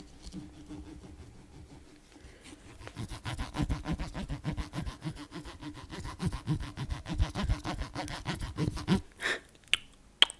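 Fast ASMR scratching, close to the microphone: faint for the first couple of seconds, then a quick, dense run of many strokes a second until near the end, where it gives way to a few separate taps.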